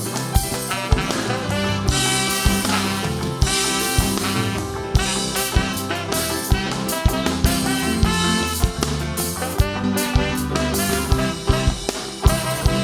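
Live calypso band playing an instrumental break between sung lines, with a steady drum beat and bass under the melody instruments.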